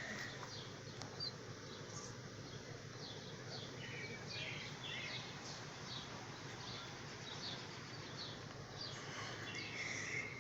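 Birds chirping: short, high chirps repeated in irregular clusters, busiest about halfway and near the end, over a steady low background noise.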